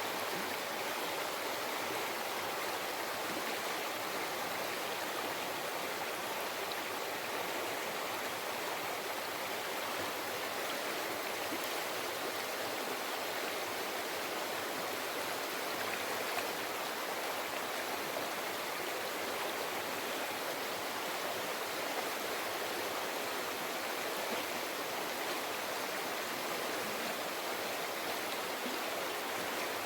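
A mountain river flowing over rocks: a steady, even rushing and babbling of water.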